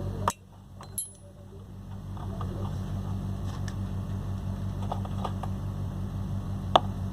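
Copper refrigeration tubing and tools being handled: a few sharp metallic clicks and taps, the loudest near the end, over a steady low hum.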